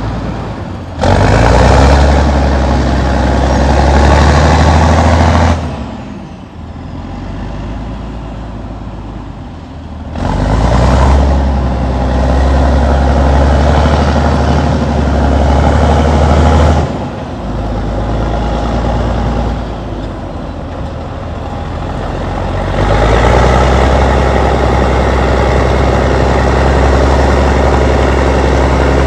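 Allis-Chalmers HD-21 crawler dozer's diesel engine working, going loud for three spells of several seconds and dropping back to a quieter run in between.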